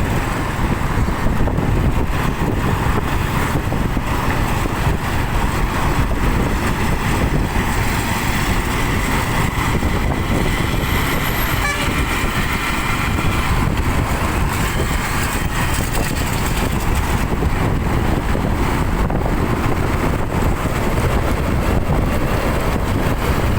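Steady road traffic noise: heavy vehicle engines and tyres rumbling on the road. Around the middle, a vehicle horn sounds for several seconds.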